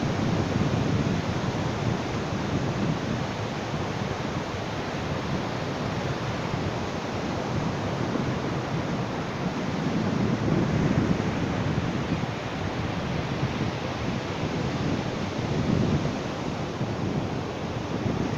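Ocean waves breaking and washing on a beach, a steady rushing that swells and eases every few seconds.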